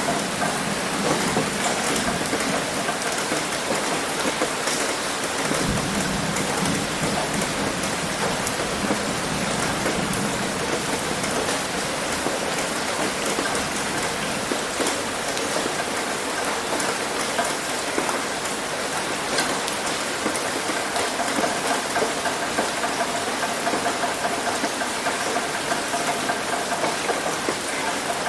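Heavy rain hitting a roof: a dense, steady patter of drops. About six seconds in, a low rumble sets in and fades over several seconds.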